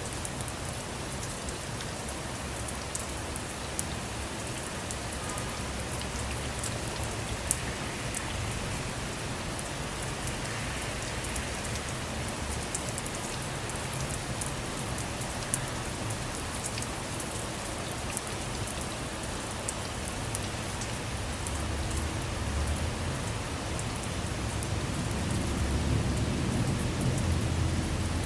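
Steady rain falling on a car, an even hiss dotted with sharp ticks of single drops striking it. A low rumble of thunder swells over the last several seconds.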